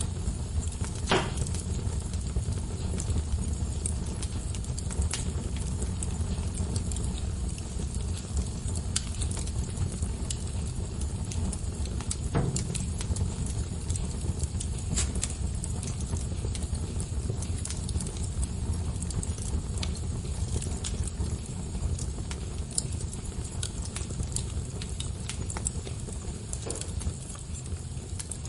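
Wood fire burning in a fireplace: a steady low rumble of flames with scattered crackles and pops, a louder pop about a second in and another about twelve seconds in.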